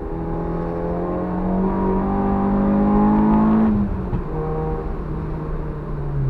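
Honda Civic EG6's B16A2 1.6-litre VTEC four-cylinder engine under full throttle, heard inside the stripped-out cabin. The revs climb steadily for about three and a half seconds, then drop sharply and hold lower.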